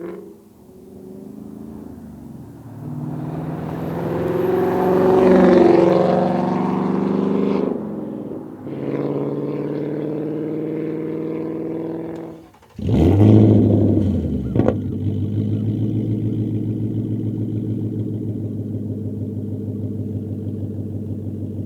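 2024 Ford Mustang GT's 5.0-litre V8 through an MBRP 3-inch cat-back exhaust with quad rear tips. It first runs under way, swelling and shifting in pitch. After a sudden break a little past halfway it starts with a loud flare and settles into a steady idle.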